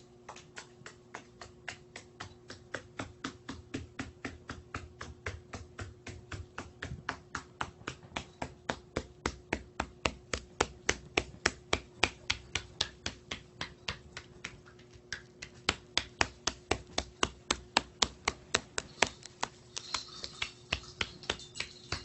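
Rapid, regular clicking, about four to five sharp clicks a second, with a short lull about two-thirds of the way through, over a faint steady hum.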